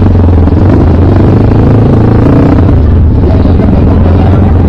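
Dirt bike engine running steadily close by.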